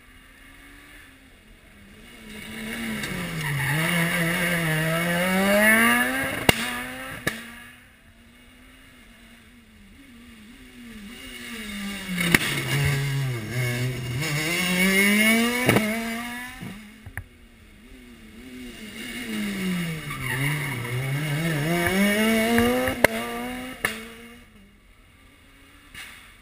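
Three rally cars pass one after another. Each engine's revs drop into the corner and then climb as it accelerates away. A few sharp cracks sound as they go by.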